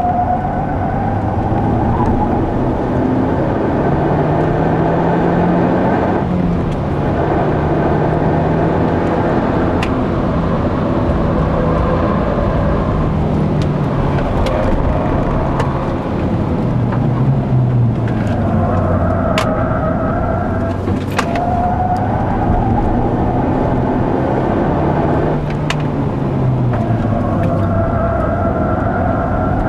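Mazda 3 MPS's turbocharged 2.3-litre four-cylinder engine under hard acceleration, heard from inside the cabin with road and wind noise. The engine note climbs through the revs, drops sharply at gear changes and lifts for corners, then climbs again.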